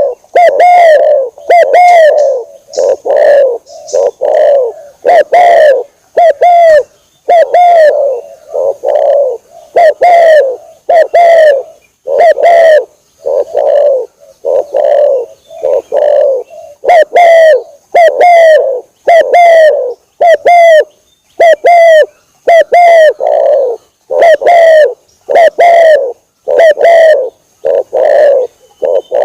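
Spotted dove (tekukur) lure call: loud cooing notes repeated about one to two a second in short phrases with brief pauses, played to draw wild doves in. A faint steady high-pitched whine runs underneath.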